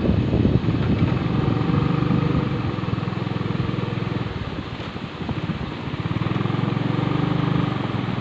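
Motorcycle engine running at low road speed, its pitch rising and falling a few times as the throttle is opened and eased.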